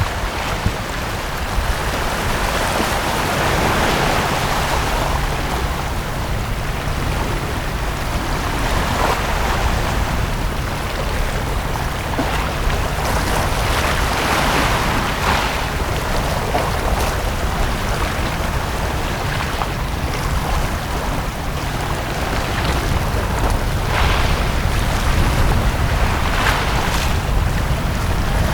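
Small sea waves breaking and washing up a beach, swelling every few seconds over a steady low rumble.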